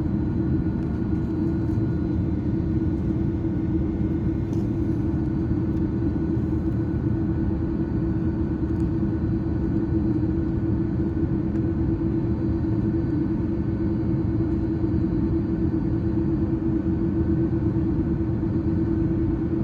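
Steady roar of an Airbus A330-300 airliner heard from inside the passenger cabin, the engines and airflow running evenly with a constant hum under the noise.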